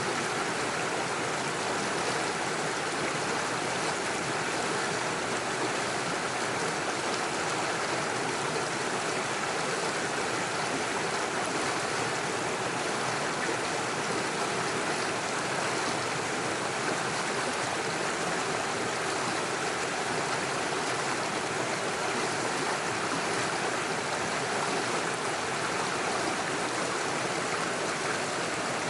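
Small forest stream running over stones and little waterfalls, a steady rushing and splashing of water.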